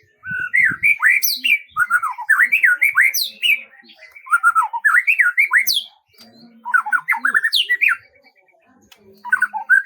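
A songbird singing in bursts of quick, warbling notes that rise and fall, mixed with sharp, higher notes that sweep downward. There are about five bursts, each one to two seconds long, with short pauses between them.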